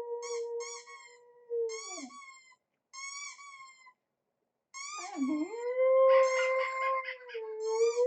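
Royal Bourbon dog howling: one long held howl that falls away about two seconds in, then after a pause a second howl that dips, rises and holds. Short high chirps repeat over the howls.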